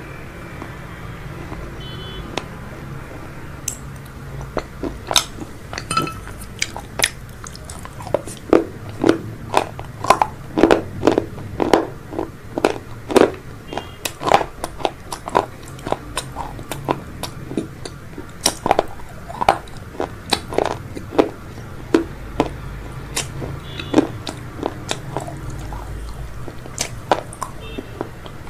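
A person chewing crunchy fried food, with sharp crunching bites coming about one to two a second, densest in the middle, over a low steady hum.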